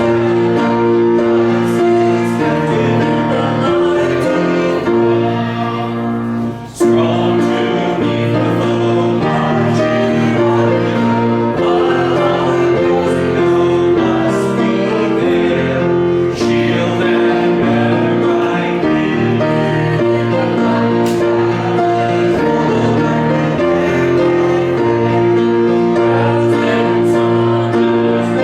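Congregation singing a hymn together with instrumental accompaniment, in steady held notes, with a short break between phrases about six seconds in.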